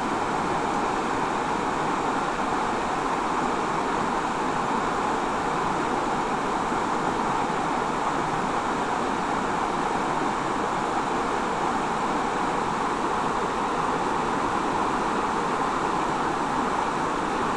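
Steady rush of a river running over a rocky riffle into a pool, an even, unbroken water noise.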